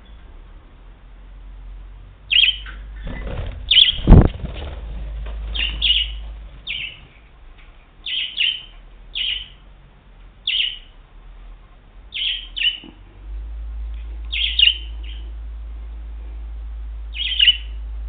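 Pet budgerigar giving short, sharp chirps, singly or in quick pairs, about one every second. A low thump about four seconds in.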